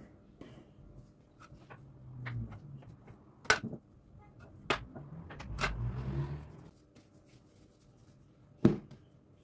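Kitchen handling sounds: four sharp knocks or clinks, as of utensils or dishes being set down, with low rubbing and shuffling in between.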